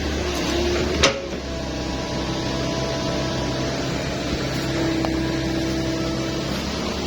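An engine running steadily with a low drone, with one sharp knock about a second in.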